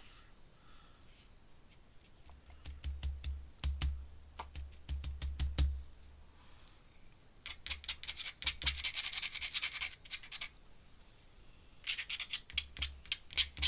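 Pen scratching and tapping on sketchbook paper in quick strokes during ink drawing, with two longer runs of dense scratching in the second half and a few dull knocks on the work surface in the first half.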